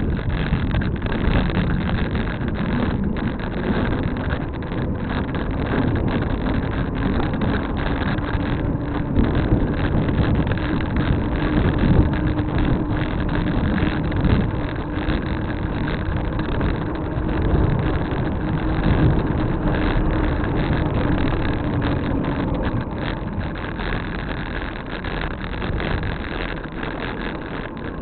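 Steady wind and road noise while riding a bicycle along a road, with a low steady hum through most of it that fades out near the end.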